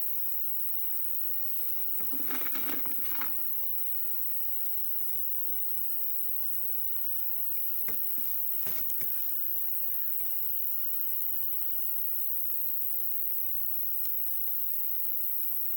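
Wood campfire burning, with scattered crackles and sharp pops over a steady hiss; a short louder burst of crackling about two seconds in and a quick cluster of pops near the middle.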